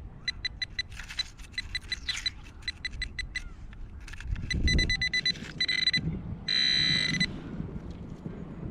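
Nokta Makro Simplex metal detector giving its target tone: a run of quick short beeps, about four a second, then longer beeps and one long steady tone about six and a half seconds in, as the coil passes over a buried metal target. A low scuffing noise comes about four and a half seconds in.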